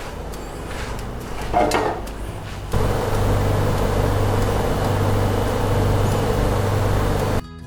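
A steady mechanical hum with a low drone and a fixed mid-pitched tone, starting abruptly about three seconds in and cutting off just before the end. Before it there is quieter background noise with one brief sound.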